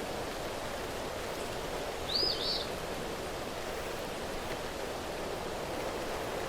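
Steady even hiss of rain and wind in the open air. A bird gives one short, high, rising-and-falling chirp about two seconds in.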